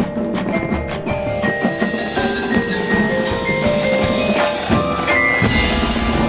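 High school marching band playing its competition show music, with mallet percussion ringing out over held notes. The low end fills in more strongly about five seconds in.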